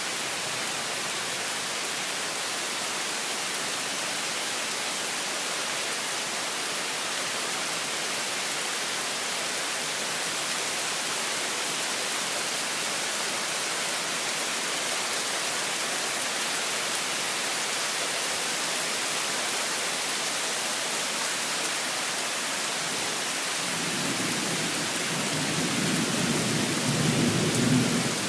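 Torrential rain falling, a steady dense hiss. About four seconds before the end a low rumble of thunder swells up under it.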